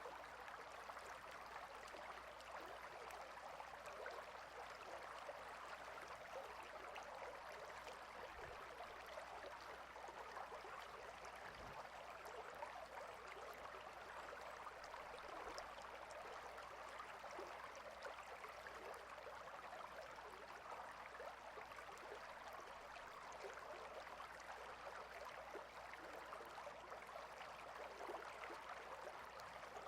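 Faint, steady babbling of a small stream, water running over rocks.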